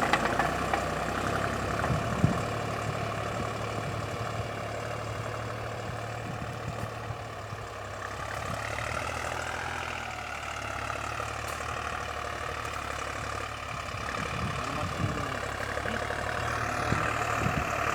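Deutz-Fahr tractor's diesel engine running steadily with a low, even hum. It gets a little quieter around the middle and louder again near the end.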